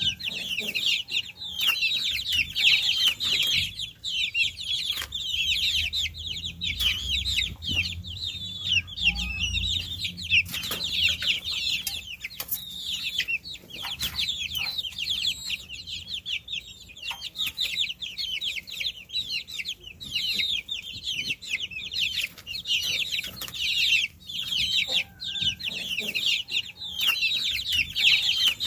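A brood of baby chicks peeping continuously, with many high, short, falling chirps overlapping one another and a few scattered light clicks among them.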